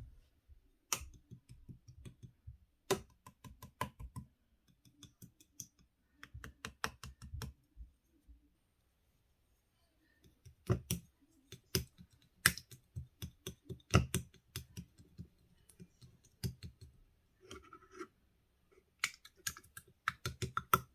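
Slime being squeezed and pressed by hand, giving off clusters of sharp sticky clicks and pops. There is a pause of about two seconds partway through.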